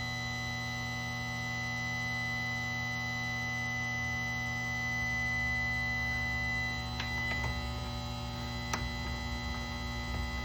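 Chicago Electric chainsaw sharpener's grinding-wheel motor running with a steady hum, with a few light clicks in the last few seconds.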